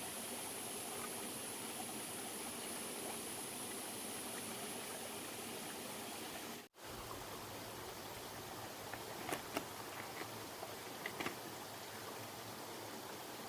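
Steady rushing noise like running water, with a thin high steady tone through the first half. The sound drops out for an instant about halfway, and a few light clicks come a few seconds later.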